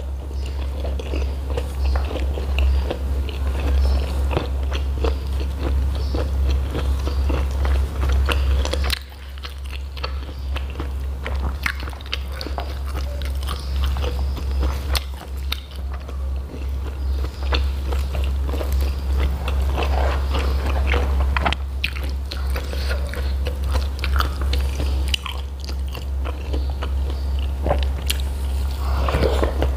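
Close-miked eating sounds: biting and chewing a mouthful of jengkol, rice and raw butterfly pea flowers, with many small wet clicks and crunches, briefly easing off about nine seconds in. A steady low hum runs underneath.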